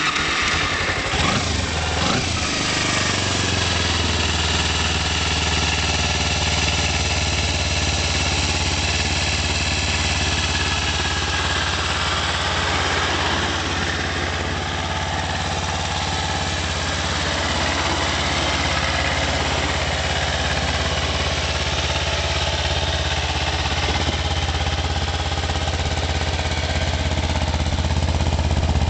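Kawasaki Ninja 250R's parallel-twin engine cranking on the starter and catching about two seconds in, then idling steadily.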